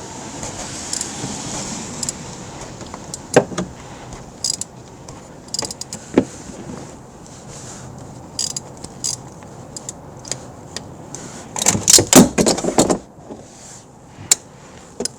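Metal clicks and clatter of a 3/8 ratchet and a cap-type oil filter wrench breaking loose and turning the oil filter housing cap, with a quick run of loud clicks about twelve seconds in.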